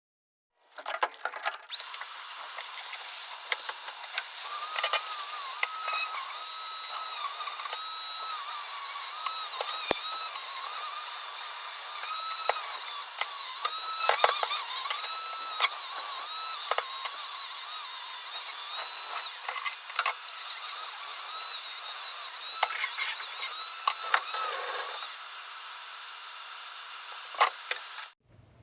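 Tool work on the car: continuous mechanical whirring and clicking with a steady high whine, ending abruptly near the end.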